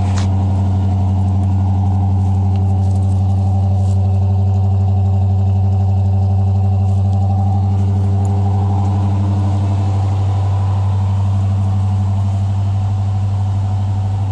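A 1978 Chevy 1-ton truck's 350 small-block V8 idling steadily just after a cold start, its pitch holding even.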